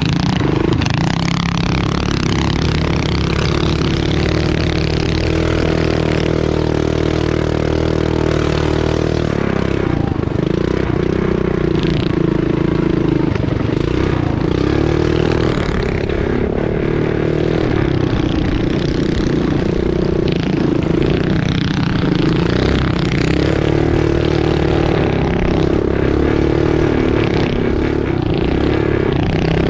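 Pull-start mini bike engine racing on a dirt track, its pitch rising and falling over and over as the throttle opens and closes, with a few knocks and rattles over rough ground.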